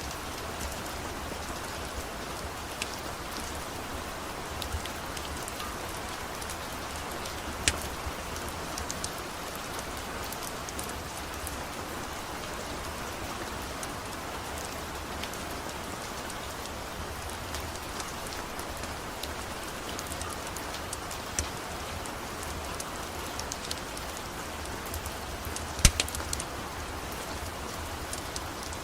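Steady rain falling, an even hiss of drops on a surface, with scattered sharp clicks and pops over it; the loudest pop comes near the end.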